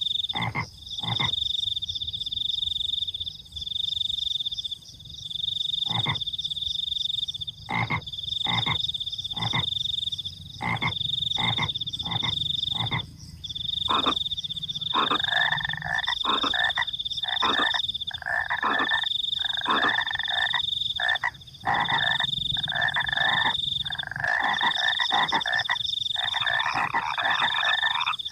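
Frogs croaking: short, sharp calls repeated every second or so, joined about halfway through by a denser, rasping chorus of croaks. Under them a steady high-pitched trill of crickets runs in long bouts.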